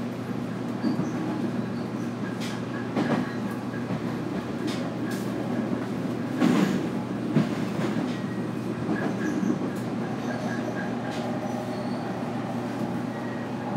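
Running noise heard inside the cabin of a JR Kyushu 811 series electric train: a steady hum and rumble, broken by a number of short knocks and clacks from the wheels over the track.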